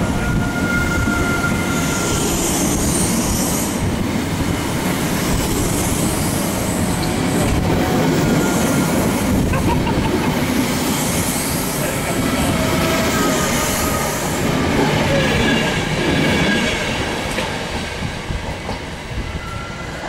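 Mark 3 passenger coaches of a loco-hauled express running past at speed: steady wheel and track noise with brief faint high wheel squeals. The noise eases a little near the end.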